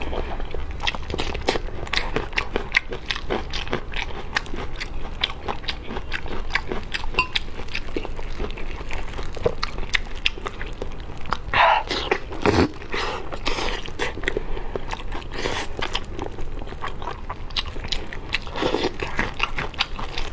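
Close-miked biting and chewing of braised belly rolls: a steady run of short, wet mouth clicks and smacks. Louder, longer mouth sounds come about halfway through and again near the end.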